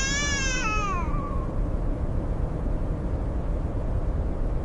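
A snow leopard cub's long crying call that falls in pitch and fades about a second and a half in, over steady low blizzard wind.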